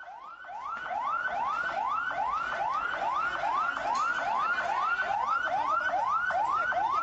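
Fire engine siren yelping: rapid rising sweeps, about two and a half a second, getting louder over the first second.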